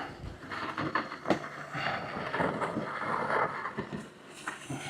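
Snow shovel pushed through snow: a rough, irregular scraping and crunching with a few sharp knocks.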